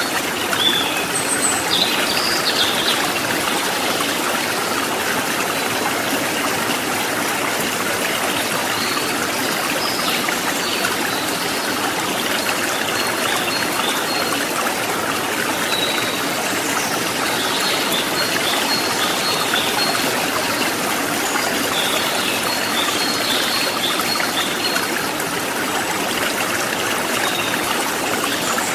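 Running water babbling steadily, a stream's continuous trickle and splash. Brief high-pitched notes sound now and then over it, near the start and again in the second half.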